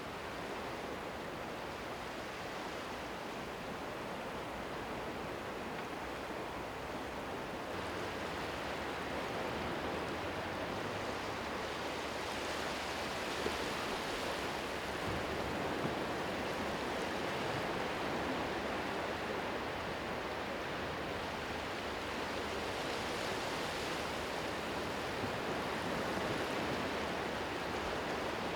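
Steady rushing noise of sea surf, growing a little louder about eight seconds in.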